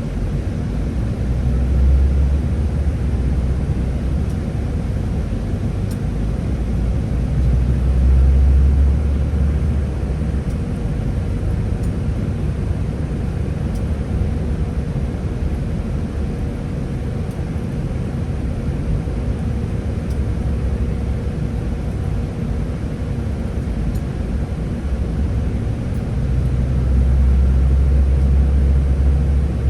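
Scania Higer A30 13-metre bus running, a steady low engine and road rumble that swells about two seconds in, again around eight seconds in, and near the end, with a faint steady whine throughout.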